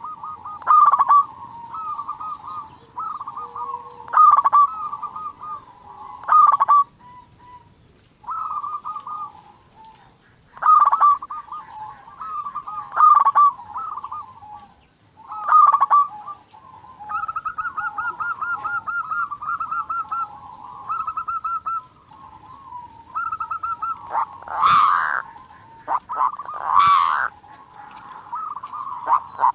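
Zebra doves (perkutut) cooing in short repeated phrases every second or two, with a fast rolling trill in the middle, as in local Javanese perkutut song. Near the end come a few louder, harsher bursts.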